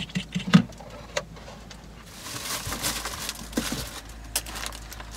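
A few quick clicks of a utensil, then from about two seconds in a steady hiss of eggy bread frying in a pan over a campfire, with occasional clicks.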